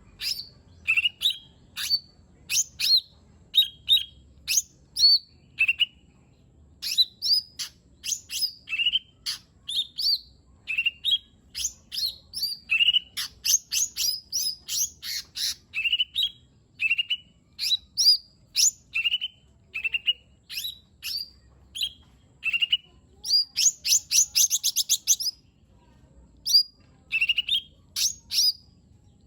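Cucak ijo mini (lesser green leafbird) singing a continuous, rapid string of sharp chirps and short whistles that slide downward in pitch. A fast trill of quickly repeated notes comes near the end.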